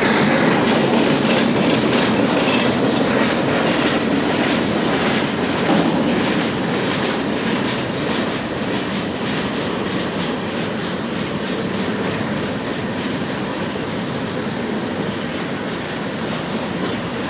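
Freight cars of a long manifest freight train rolling past: a steady rumble with the clickety-clack of wheels over rail joints, easing slightly in level toward the end.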